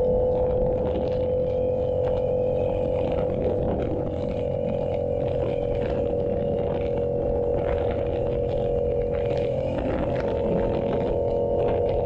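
Yamaha YZF-R7's 689 cc parallel-twin engine through an SC-Project exhaust, running at steady revs while cruising, with the pitch holding nearly constant throughout.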